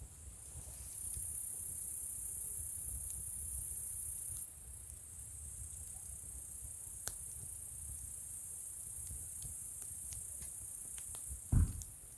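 Wood campfire burning with occasional sharp crackles and pops and a low rumble, over steady high-pitched insect chirring that drops in loudness a few seconds in. A short, loud low thud near the end.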